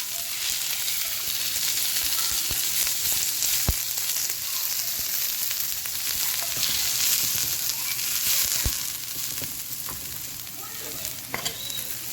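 Pechay greens sizzling as they sauté in a hot pan, a steady hiss with a few sharp clicks here and there.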